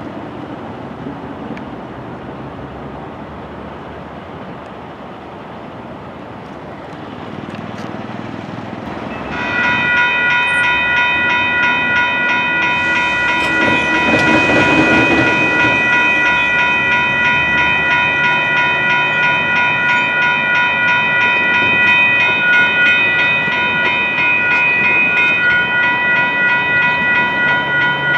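Grade crossing warning bells start suddenly about a third of the way in and ring on with an even, rapid pulsing. Before that there is a steady rush of traffic, and midway a louder passing rush swells and fades under the bells.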